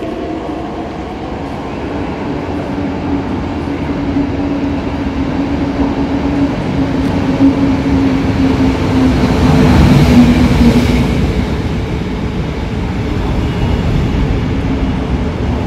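Train moving through the station: a steady rumble with a low humming tone, growing louder to a peak about ten seconds in, then easing off.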